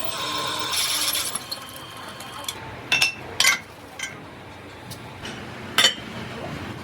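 Metal workshop sounds: a machine runs with a steady whine for about the first second and a half and then stops. Several sharp metallic clinks follow, the loudest near the end, as of iron parts or tools knocking together.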